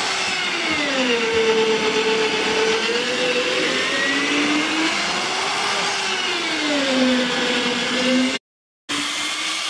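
A motor running with a steady whine whose pitch slowly rises and falls several times, as its speed changes under load. The sound drops out for a split second shortly before the end.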